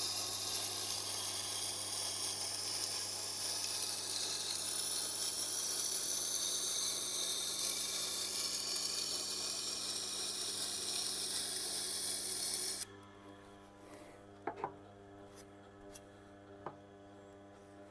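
Steel knife edge grinding on a coarse 80-grit wheel of a Tormek sharpening machine while the bevel is being shaped, a steady grinding that stops suddenly about 13 seconds in. After that only a low steady hum and a few light clicks remain.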